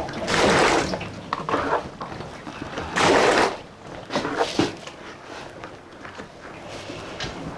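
Soy milk sloshing and splashing in a cauldron as it is stirred with a ladle while it curdles into tofu. Two louder surges come, one just after the start and one about three seconds in.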